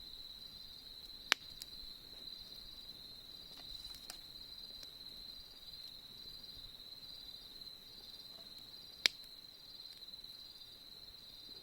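Crickets chirping in a steady, high, pulsing trill, with two sharp pops from a campfire: one about a second in, another late on.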